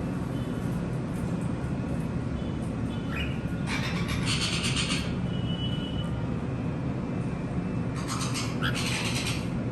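Pet conures chirping, with two harsh, rasping squawks of about a second each, one about four seconds in and another near the end, over a steady low hum.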